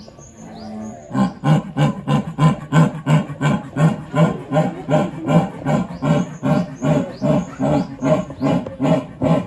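A large animal calling in a fast, regular series of short, pitched pulses, about three a second, starting about a second in.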